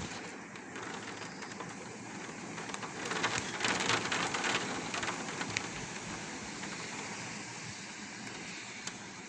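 Heavy rain pouring steadily in a thunderstorm, growing heavier for a second or two about three seconds in, with scattered faint drip clicks.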